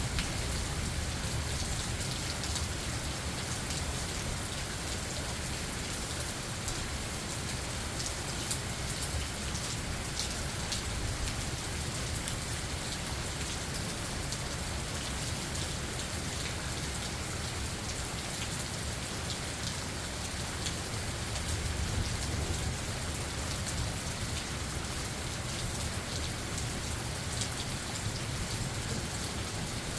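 Steady rain falling on a forest, individual drops ticking over a continuous hiss, with a low rumble of thunder swelling about two-thirds of the way through.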